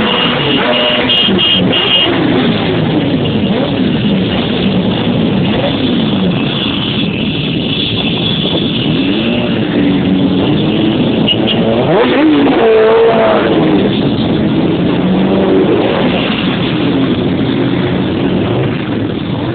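Several motorcycle engines revving over a bed of engines running, their pitch rising and falling again and again.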